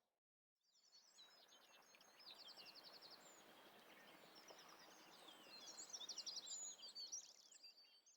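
Faint calls of several small songbirds: many quick high chirps and whistles, with a fast trill about three seconds in. The calls fade in after a brief silence and fade out at the end.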